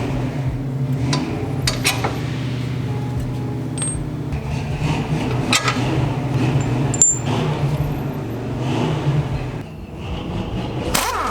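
Metal tools and car parts clinking and scraping a few times over a steady low machine hum, which drops out briefly near the end.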